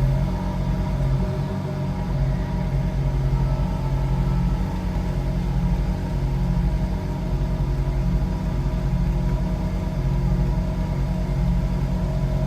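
Ferrari 458's V8 engine idling steadily, a low even rumble with no revving.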